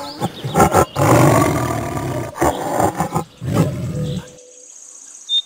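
Tiger roaring: a run of loud, rough roars, one of them long, that stops abruptly about four seconds in.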